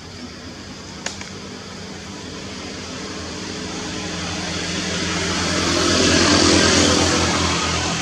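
A motor vehicle passing by, its engine and road noise growing louder to a peak about six and a half seconds in, then fading. A single sharp click about a second in.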